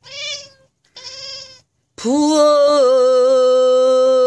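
A cat meows twice, short and wavering, then a pansori singer holds one long, steady, loud note from about two seconds in.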